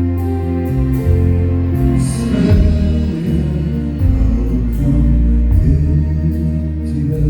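A live band playing: deep bass notes that shift about once a second under sustained chords, with light, regular ticks in the top.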